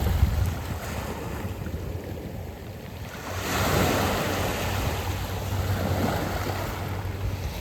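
Sea waves washing in and out over a beach of smooth round pebbles. A wave surges up about three seconds in and slowly drains back, with wind rumbling on the microphone underneath.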